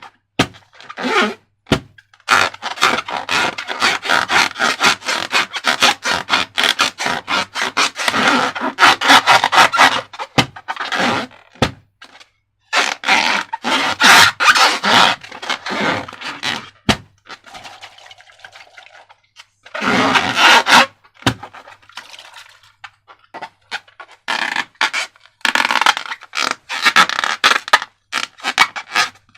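Close-up sounds of slime being worked by hand: dense, irregular scraping and crackling in long runs, broken by short pauses.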